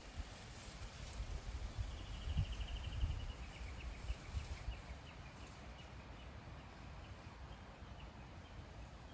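A small bird calling: a quick trill, then a string of separate short chirps, over a low steady rumble with a few soft knocks.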